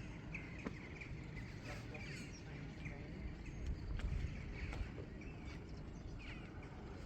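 Birds chirping over and over in short curved calls, over a low, steady outdoor rumble, with a few faint clicks.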